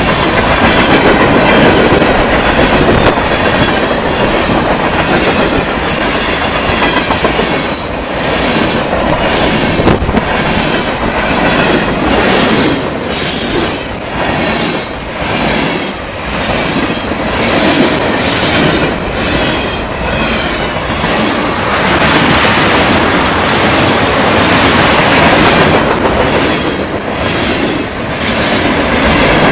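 Loud freight train cars (boxcars and tank cars) rolling past, steel wheels clacking steadily over rail joints, with brief high-pitched wheel squeals about halfway through.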